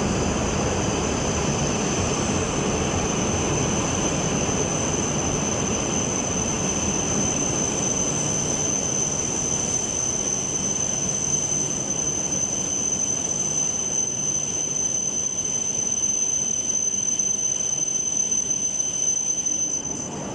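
Shinkansen train running alongside the platform: a steady rushing noise with a high, steady whine that cuts off near the end.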